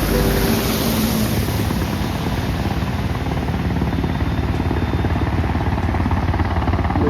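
Helicopter rotor chop, a steady fast low pulsing, with a few music notes fading out in the first second.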